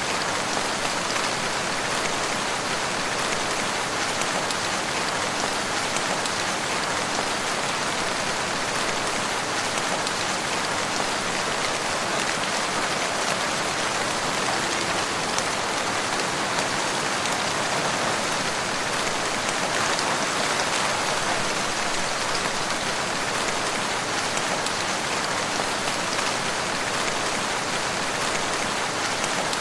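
Steady rain falling on a surface: an even, unbroken hiss of many drops.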